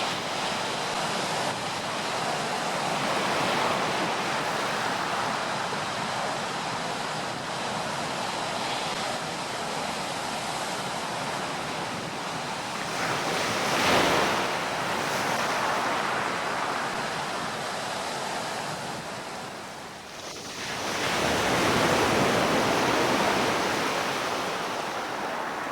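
Sea waves washing ashore: a steady rush of surf, with a wave breaking about halfway through and a larger surge near the end.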